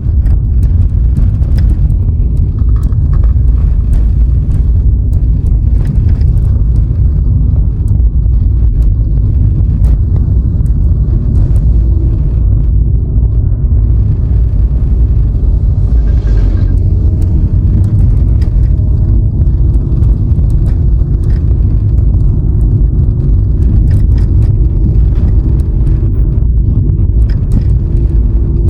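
Car driving along a road: a loud, steady low rumble of road and wind noise with scattered faint ticks, and a brief hiss about sixteen seconds in.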